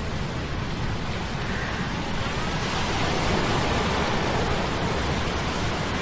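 Sea-storm sound effect of rushing surf, swelling a little in the middle, layered over a steady low hum of metal gears.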